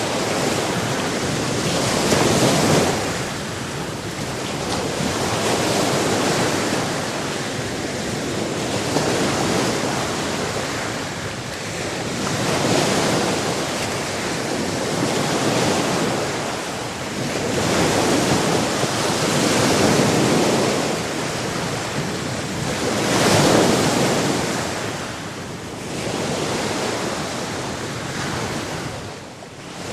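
Sea surf: waves breaking and washing ashore, the rush swelling and falling back about every three to four seconds.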